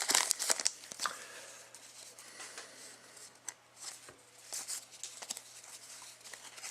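Hockey trading cards being handled and sorted by hand: card and wrapper rustling, louder in the first second, then faint scattered slides and taps of cards.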